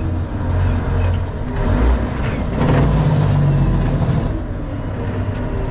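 Freightliner FLD semi truck's diesel engine running with a steady low rumble that swells and eases slightly.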